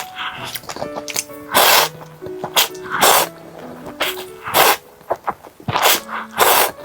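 Close-miked slurping of spicy Buldak noodles, about six short, sharp slurps, over background music with steady notes.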